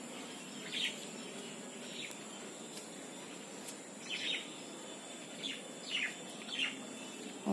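Small birds chirping in short falling notes, scattered singly and in little clusters over a faint steady background hiss.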